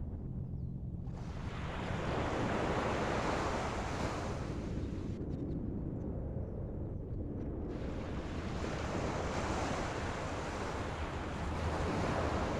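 Ocean waves washing in along the shore, surging and fading twice, with wind rumbling on the microphone.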